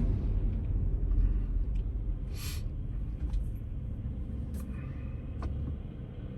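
Low engine and road rumble heard from inside a moving car, fading steadily as the car slows to a stop, with a few faint ticks and one short hiss.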